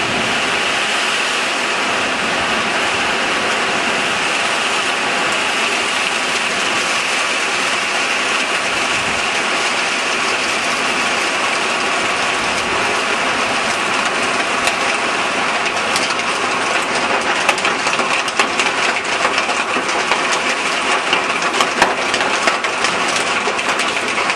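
Heavy rain falling steadily. About two-thirds of the way in, hailstones begin striking hard surfaces as sharp clicks and knocks that come more and more often.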